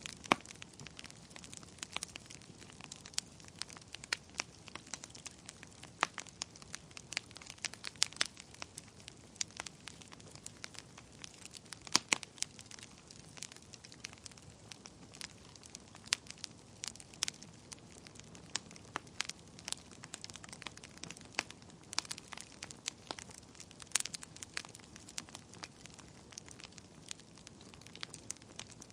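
Wood fire in a fireplace crackling, with irregular sharp pops over a faint steady hiss; the loudest pop comes about twelve seconds in.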